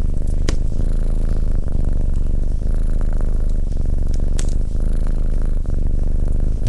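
Domestic cat purring steadily, close up, with a few sharp clicks.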